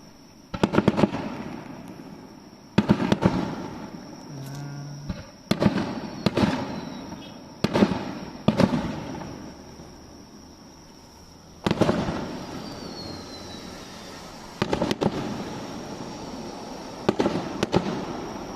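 Fireworks shells bursting overhead: about nine loud bangs, some in quick pairs, each trailing off in a long rumbling echo. A steady high insect trill runs underneath.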